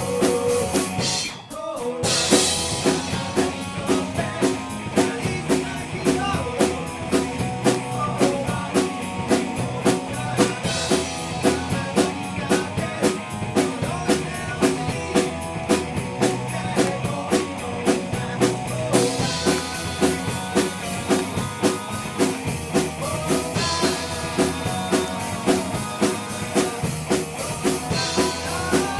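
Live rock band playing with drum kit, electric guitar and bass in a steady driving beat; the band stops for a split second about a second and a half in, then comes back in together.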